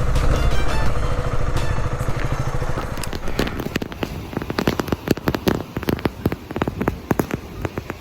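KTM Duke 125's single-cylinder engine running with a low, even pulse that fades out over the first three seconds. From about three seconds in, wood campfire crackling and popping takes over: irregular sharp snaps.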